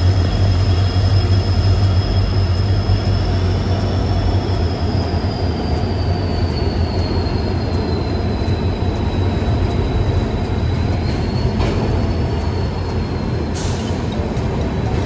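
Passenger train running, with a steady low rumble and a high, thin wheel squeal that slowly drifts down in pitch. There is a brief hiss near the end.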